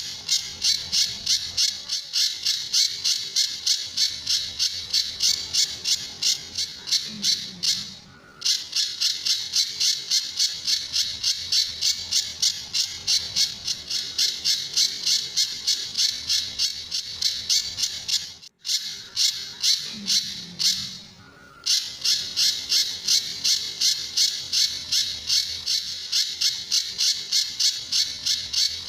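Pijantur bird calling in a fast, steady series of short, sharp high-pitched notes, about three a second: the repeated 'tembakan' (shot) notes prized in masteran song recordings. The series breaks briefly about eight seconds in and again for a few seconds about two-thirds of the way through.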